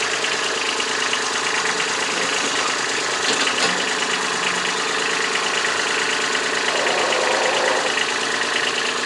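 Engine of a small front-loader tractor running steadily.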